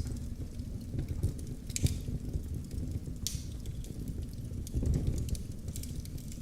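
Wood fire in a fireplace crackling: scattered sharp pops and snaps over a steady low rumble of the flames, with a louder pop about two seconds in.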